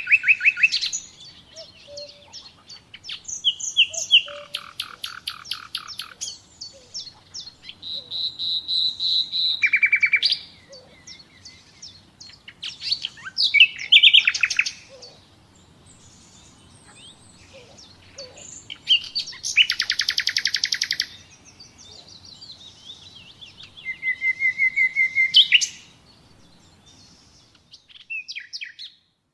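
Common nightingale singing in separate phrases a second or two long with short pauses between them: rapid trills and rattles of repeated notes, and one held pure whistle.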